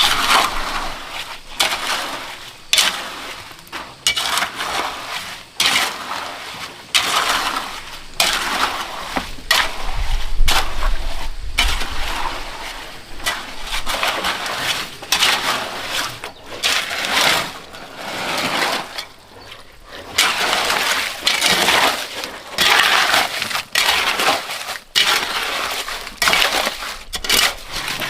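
Repeated gritty scraping and crunching strokes, irregular, roughly one a second: a hand tool working coarse gravelly material, as in mixing or spreading concrete for a floor.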